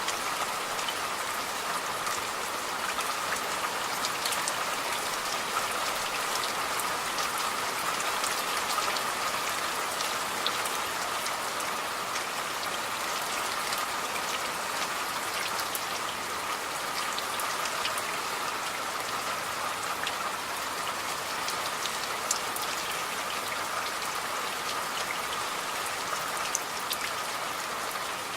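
Steady rain falling on a surface, with fine scattered drop ticks over an even hiss.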